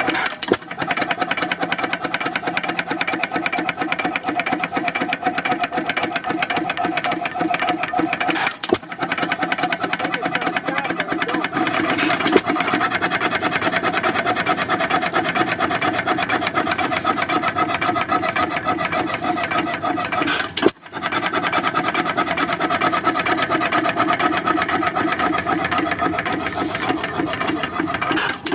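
Antique stationary gas engine running with a fast, even mechanical clatter. The sound drops out briefly twice.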